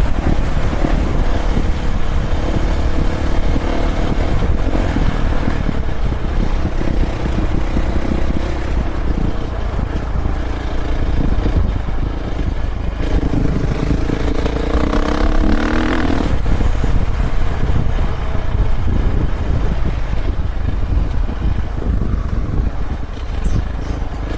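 Dirt bike engine running under way over rough ground, with heavy wind rumble on the microphone; a little past the middle the engine revs up, its pitch rising for a couple of seconds before dropping back.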